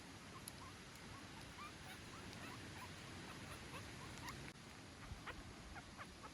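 Newborn puppy squeaking: many short, high, rising squeaks in quick succession, faint over a steady hiss, coming thicker in the second half.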